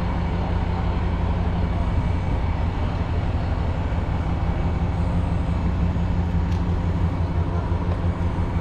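Heavy diesel truck engine idling, a steady low rumble with a constant hum over it.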